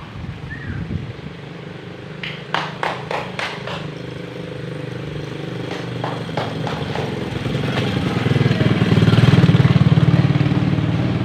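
A motor engine running steadily, growing louder toward the end, with a few sharp clicks or knocks about two to four seconds in.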